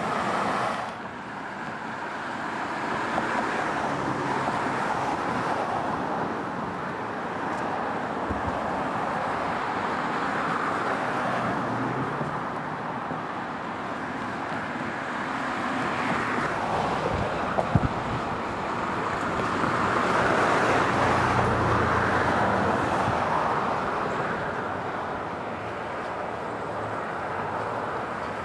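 Road traffic: a steady rush of cars going by, swelling and fading as vehicles pass, loudest a little past two-thirds of the way through. A couple of sharp clicks come just before that.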